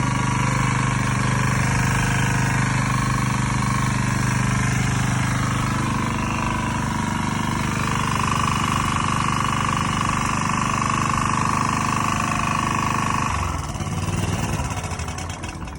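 Maxi 1.5 kVA portable generator's small petrol engine running steadily, an engine that is burning oil and wetting its spark plug. Its sound changes and tails off over the last two seconds or so.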